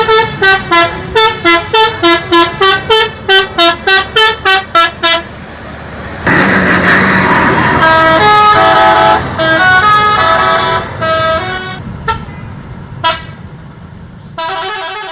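Multi-tone bus horn playing a quick melody of short toots, about three a second, for some five seconds. Then a longer noisy blast and several held horn tones, with one more short toot near the end.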